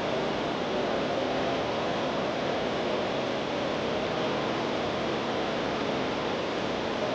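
Steady rushing background noise with no distinct events, even and unchanging throughout.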